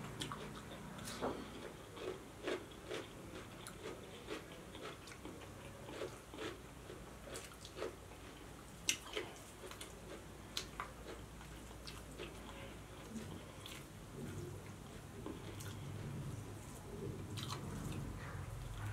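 Close-miked eating sounds of two people chewing mouthfuls of egg biryani and chamsur saag eaten by hand: irregular mouth smacks and short sharp clicks of biting and chewing, the loudest snap about nine seconds in.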